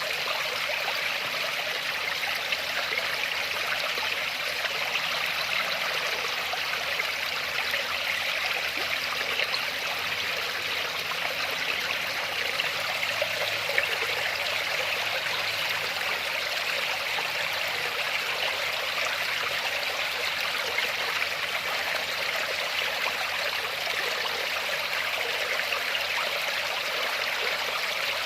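Waterfall: water falling and running steadily, an even rushing hiss with no breaks or changes.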